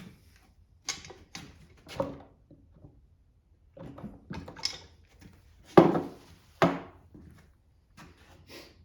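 Hand tools and metal engine parts being handled during a Kohler small-engine teardown: an irregular series of knocks and clanks, the two loudest about six and six and a half seconds in.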